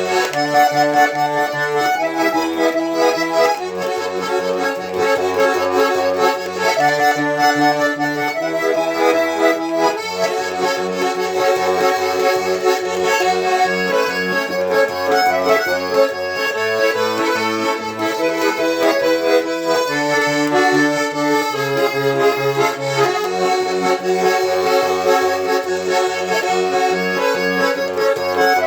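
Garmon (Russian button accordion) playing an instrumental passage: a sustained melody over an evenly pulsing bass-and-chord accompaniment.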